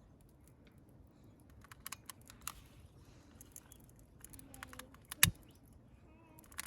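Campfire kindling crackling, with scattered irregular small clicks and one sharp snap about five seconds in.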